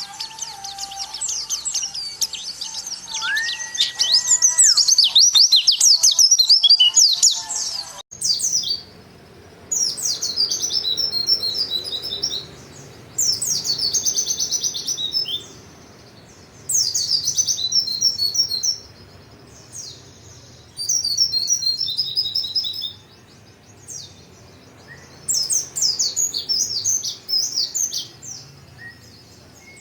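White-eye (pleci) singing in rapid, high twittering phrases, as used for training cage birds. For the first eight seconds the song is continuous, with a lower, steady whistled note sounding twice beneath it. After an abrupt cut it comes in bursts of two to three seconds with short pauses between them.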